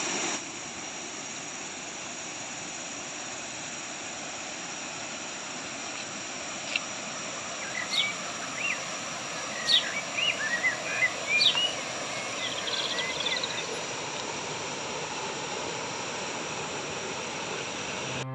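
Steady rushing of the waterfall and river water, with a bird calling in a run of short, sharp chirps and whistles from about seven to thirteen seconds in.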